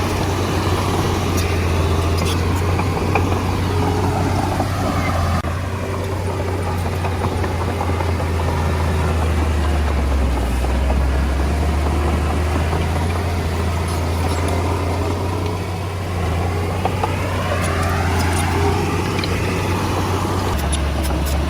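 Komatsu D20A bulldozer's diesel engine running steadily with a low drone as the dozer works, dipping slightly in level around five seconds in and again around sixteen seconds in.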